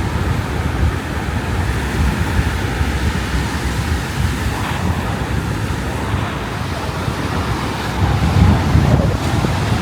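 Ocean surf washing on the beach, with wind buffeting the microphone; the rumble swells louder for a moment near the end.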